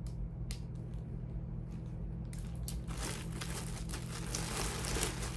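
Charging cords being handled and rummaged through: a couple of light clicks, then dense crinkling and rustling from about two seconds in.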